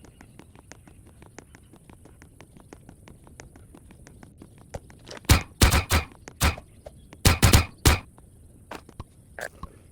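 Wood fire crackling: a steady run of small snaps and ticks, with a cluster of much louder sharp pops or knocks about halfway through.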